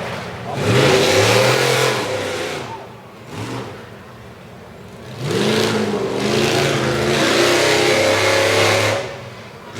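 Four-wheel-drive truck engine revving hard in two long surges with a short blip between, its pitch sweeping up each time, as in a Tough Trucks mud race.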